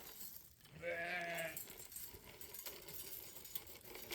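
A sheep bleats once, a single wavering call lasting under a second, about a second in, followed by faint small clicks and rustling.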